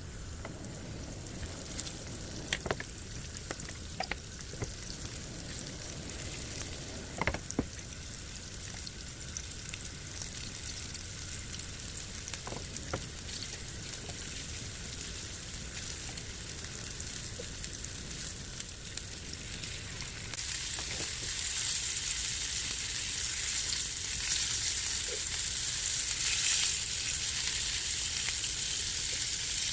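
Food sizzling and frying in a pan, with a few sharp clicks of a utensil against the pan in the first several seconds. About twenty seconds in, the sizzle gets clearly louder.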